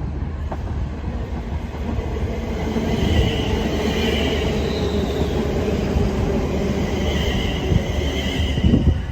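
A train running over the rails at close range, a steady rumble with high wheel squeals twice, about three seconds in and again about seven seconds in.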